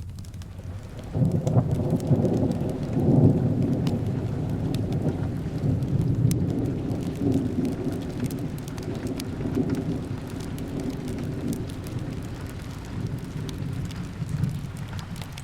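Rolling thunder over steady rain: a deep rumble breaks in about a second in, is loudest around three seconds, then slowly dies away toward the end.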